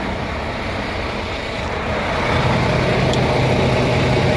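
Diesel semi-truck engines idling, a steady low rumble; about two seconds in, a low drone grows louder.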